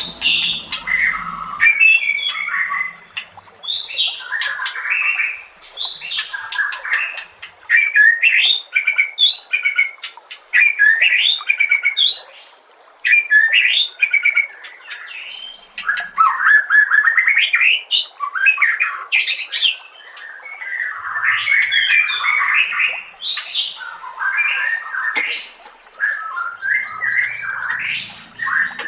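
White-rumped shama (murai batu) singing a long, varied song of quick whistled phrases, trills and sharp clicking notes, with only a brief pause near the middle.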